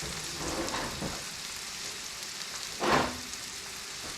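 Squash and onions sizzling steadily in a pan on the stove, with one brief clatter about three seconds in.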